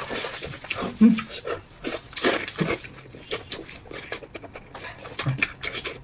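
Close-up mouth sounds of eating braised beef tendon: chewing and lip-smacking with many short wet clicks, and a brief low hum about a second in.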